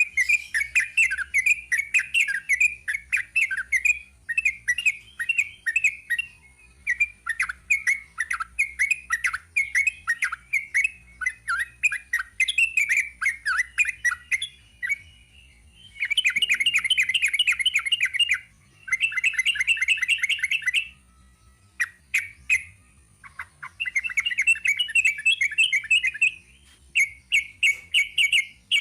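Yellow-vented bulbul (trucuk) singing a long, rapid 'ropel' song: quick, bubbly chattering phrases run almost without pause, broken by dense, fast trill runs about halfway through and again near the end.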